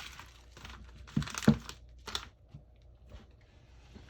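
Packaging being handled: short bursts of crinkling and rustling with a few sharp clicks, the loudest rustle about a second and a half in.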